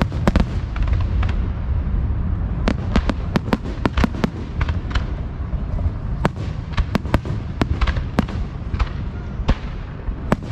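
Fireworks display heard from close to the launch site: a rapid, irregular run of sharp cracks and bangs over a continuous deep rumble.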